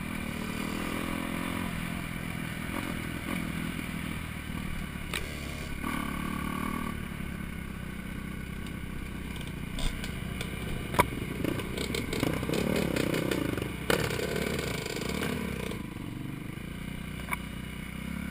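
Four-stroke dirt bike engine running and revving up and down as it is ridden along a rough trail, with clattering from the bike and a few sharp knocks in the middle.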